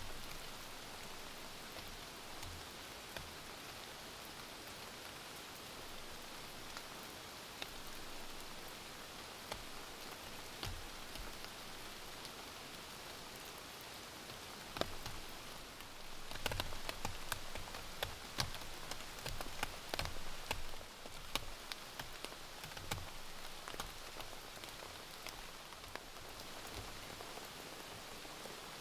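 Rain falling: a steady hiss with scattered drops landing as sharp taps. The drops come thicker and louder for several seconds past the middle.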